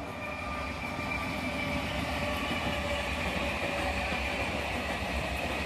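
Electric multiple-unit local train passing close by, a steady rumble of wheels on rail with thin high-pitched tones running through it, growing a little louder over the first second.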